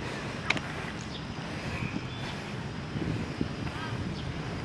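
Outdoor background noise: a steady low rumble, with a few faint high chirps and a single click about half a second in.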